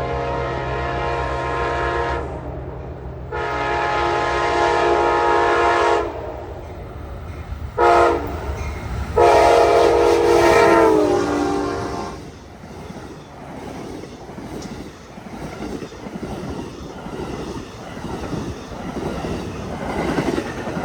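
Amtrak P42DC diesel locomotive's air horn sounding the grade-crossing signal, long, long, short, long, with the last blast dropping in pitch as the locomotive passes. Then the passenger train's cars roll by with a rough rumbling noise.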